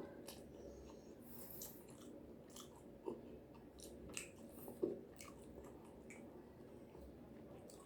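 Close-up chewing and biting of food: scattered small crunches and wet mouth clicks, with two sharper crunches about three and five seconds in, over a steady low hum.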